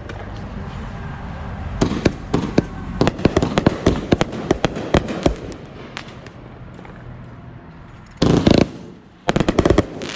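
Consumer fireworks going off: a rapid, irregular string of sharp cracks and reports, then a dense loud burst about eight seconds in and a quick volley of cracks near the end.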